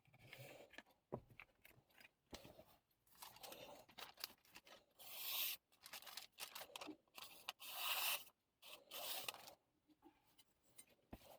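Faint scraping of a steel chef knife blade in separate short strokes, three of them louder and about half a second long in the second half.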